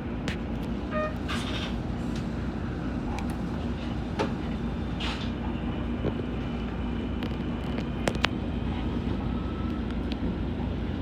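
Toei Shinjuku Line train running, heard from inside the front car: a steady low rumble with sharp clicks from the wheels and track. A short beep about a second in, and a faint high whine from about halfway.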